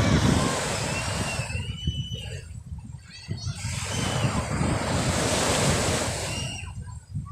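Sea waves washing onto the shore in swells that rise and fall, loudest near the start and again in the middle, with wind rumbling on the microphone.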